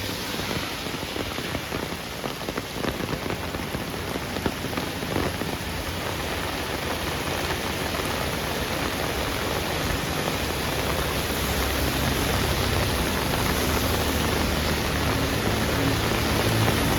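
Heavy rain falling on a street: a steady hiss with the patter of drops, growing slowly louder. A low rumble builds over the last few seconds.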